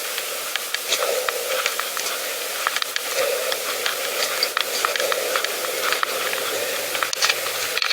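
Bicycle on the move on a rough path: a steady hiss with frequent small clicks and rattles, and a soft swell about once a second.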